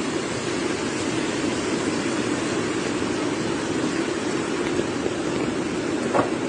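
Steady rushing of floodwater pouring across a road, an even noise with no rhythm, with a single brief click near the end.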